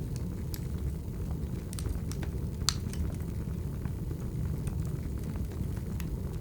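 Wood fire crackling: a steady low rumble with scattered sharp pops and snaps, the loudest about two and a half seconds in.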